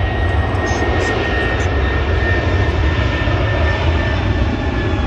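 Jet airliner's engines: a loud, steady rumble with a high whine that slowly falls in pitch.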